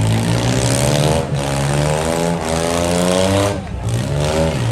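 Engines of demolition derby vans revving hard, their pitch climbing and sagging with the throttle, then falling away sharply near the end.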